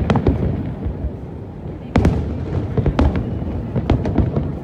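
Aerial fireworks going off: a quick series of sharp bangs over a continuous low rumble of distant bursts, with a loud burst about two seconds in and several more near the end.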